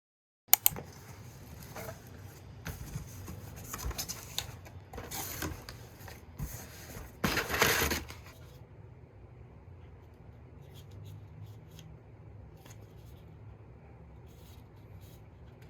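A sharp click, then several seconds of irregular rustling and scraping, as of objects being handled, loudest just before it stops. After that comes faint room tone with a few light ticks.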